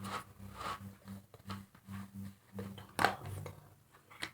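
Small clicks and taps of Play-Doh tubs and plastic modelling tools being handled on a table, with one sharper click about three seconds in, over a steady low hum.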